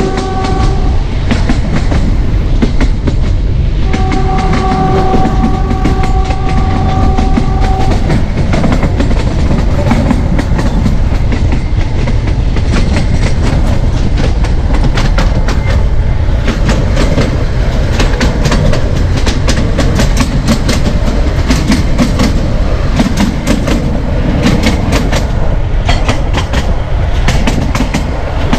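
Narrow-gauge train running, with the ZDM4A diesel locomotive's horn sounding briefly at the start and again in a blast of about four seconds beginning about four seconds in. After that the wheels clatter rhythmically over the rail joints, over a steady rumble of the moving carriage.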